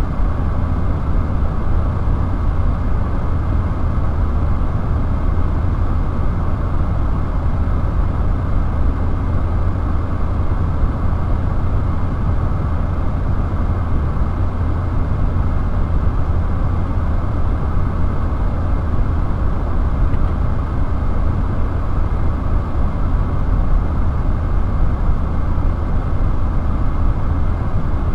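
Steady low engine rumble with a hiss over it, unchanging throughout, heard from inside a parked vehicle's cabin.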